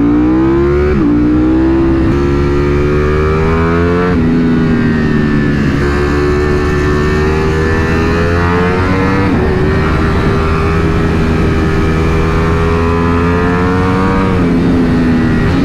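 Ducati Panigale V4 SP's V4 engine pulling hard under acceleration. Its pitch climbs and drops sharply about four times as the rider shifts up through the gears.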